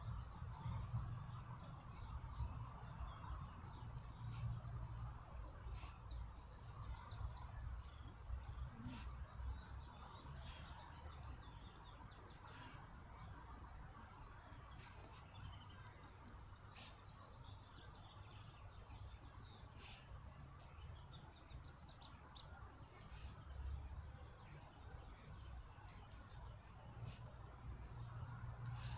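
Small birds chirping and twittering on and off throughout, faint, over a low rumble.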